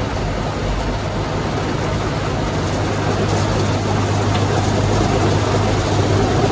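Car wash machinery running: a steady rushing noise over a constant low hum, rising slightly toward the end.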